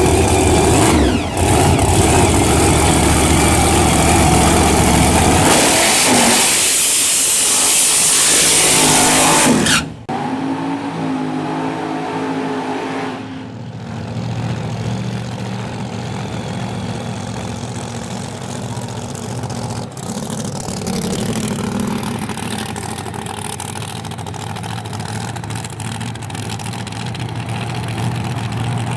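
Drag race car engines running very loud, loudest for a few seconds near the middle of the first half, then cutting off abruptly. Afterwards a quieter, steady engine rumble.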